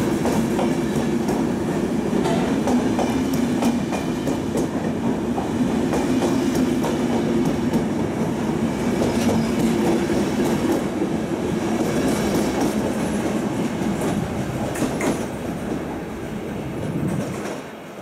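Passenger coaches of a departing train rolling past close by, their wheels clicking over the rail joints above a steady rumble. The sound fades near the end as the last coach goes by.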